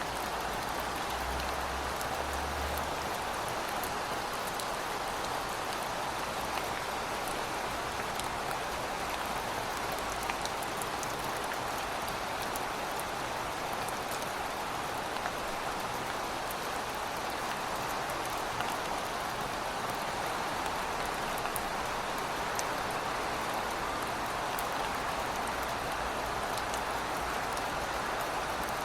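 Heavy rain falling steadily: an even, dense hiss with scattered sharp ticks of drops striking surfaces close by.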